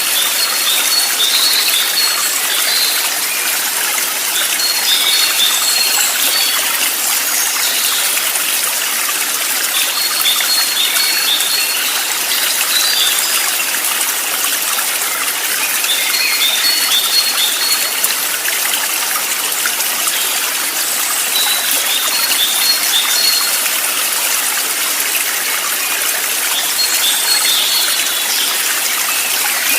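Stream water running steadily, with a short phrase of quick high bird notes repeating about every five or six seconds.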